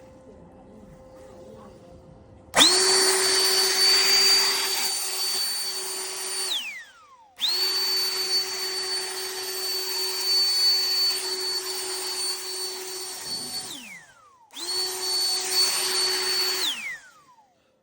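Cordless leaf blower's high-speed electric motor and fan switched on three times, running with a steady rush of air and a high whine, then spinning down with a falling whine after each run. The first run starts about two and a half seconds in, and the last stops shortly before the end.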